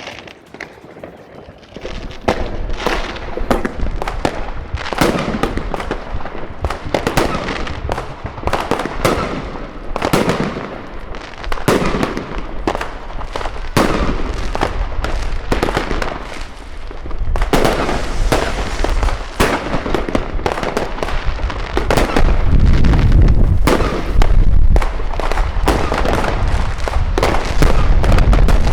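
New Year's fireworks going off in a dense, continuous barrage of bangs and crackle, several blasts a second, starting about two seconds in and growing louder with a deep rumble near the end.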